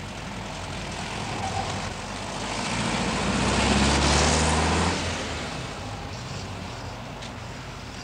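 Volkswagen Beetle's air-cooled flat-four engine driving past at a steady speed, growing louder to a peak about four seconds in and then fading away.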